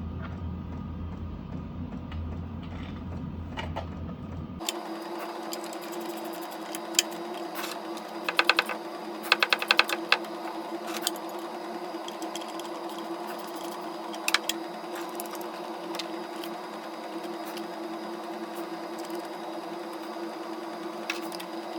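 Metal clicks and taps of hand tools on a small generator being put back together, with a quick run of rattling clicks a few seconds in, over a steady hum.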